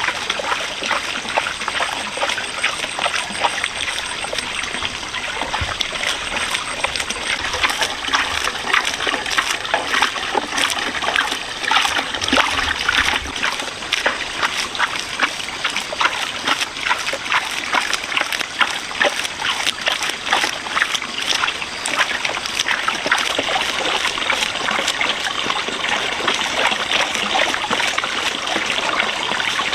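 Water trickling and splashing, with many small, quick splashes over a steady flow.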